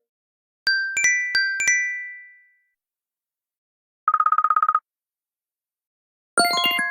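Electronic alarm and ringtone sounds: a quick four-note chime with ringing tails, then a short, rapid buzzing beep about halfway through, then a melodic electronic ringtone tune starting near the end.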